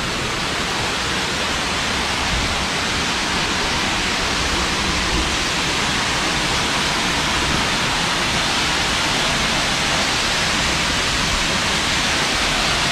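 Rushing water, a steady, even hiss and roar that holds without a break.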